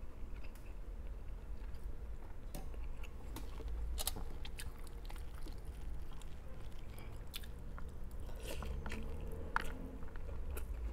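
A person chewing a mouthful of food with the mouth close to the microphone, with scattered sharp wet clicks and smacks.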